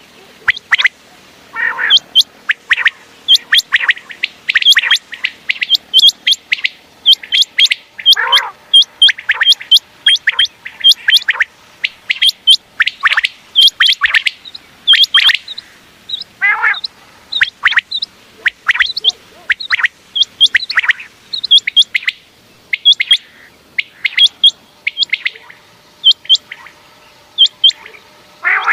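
Common quail calling over and over: many short, sharp whistled notes in quick succession, with a few lower calls falling in pitch among them.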